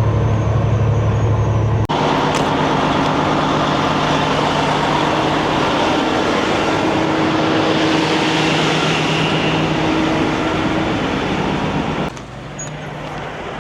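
Semi-truck driving at speed, heard from inside the cab: a steady low engine drone, then a fuller rush of road and wind noise, and the sound changes abruptly twice, about two seconds in and near the end.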